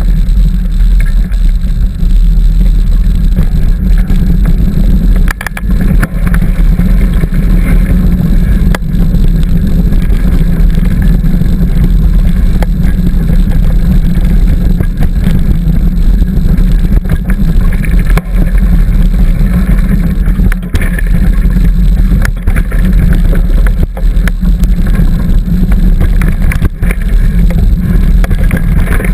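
Wind buffeting the microphone of a camera on a moving bicycle, a loud continuous low rumble, with scattered clicks and rattles from the bike jolting over the trail.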